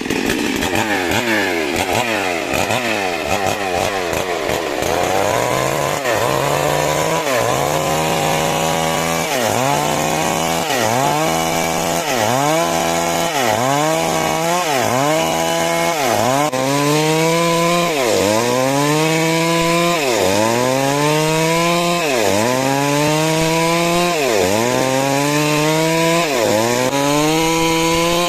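Two-stroke chainsaw cutting wood lengthwise. Its engine pitch drops as the chain bites, then climbs back, over and over, about once a second at first and more slowly toward the end.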